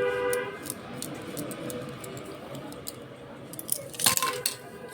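Small ticks and clicks of hand work on a small plastic machine housing and its circuit board, as a nut and parts are fitted, with a louder clatter about four seconds in. A vehicle horn sounds from outside at the very start.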